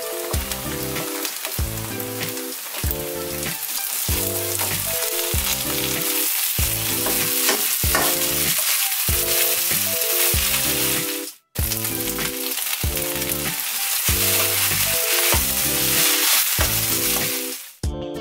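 Fried rice and scrambling egg sizzling in a hot frying pan as they are stirred, a dense steady sizzle that breaks off for an instant about eleven seconds in and stops near the end. Background music with a regular beat plays underneath.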